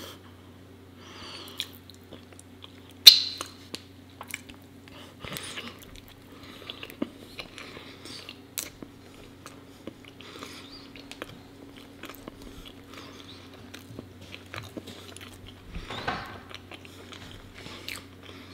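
Close-miked eating of soft bread topped with raw honeycomb: a bite, then sticky chewing with many small wet clicks and smacks. A sharp click about three seconds in is the loudest sound.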